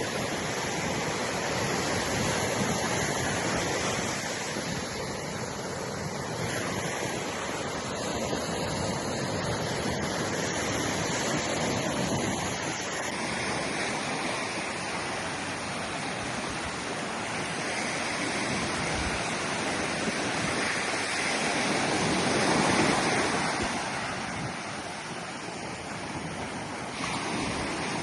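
Ocean surf: a steady rush of waves with slow swells, the loudest about three quarters of the way through. The sound changes abruptly about halfway and again near the end.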